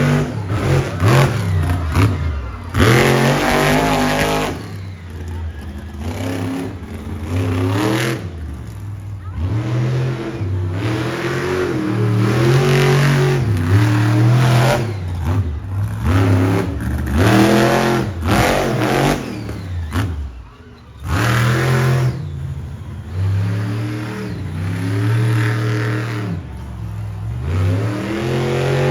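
Monster truck engine revving hard, over and over, its pitch climbing and falling every second or two. It drops off briefly about two-thirds of the way through, then picks up again.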